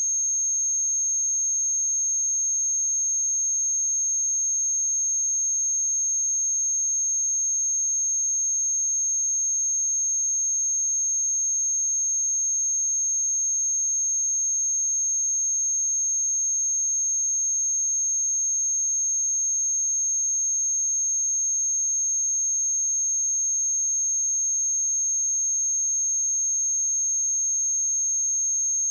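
A pure 6437 Hz sine-wave test tone, one steady high-pitched pitch held without change.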